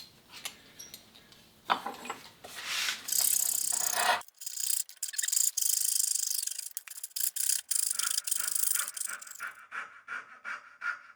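Dovetail backsaw cutting through wood by hand, a rasping run of strokes that turns into quick, even short strokes near the end, about three or four a second.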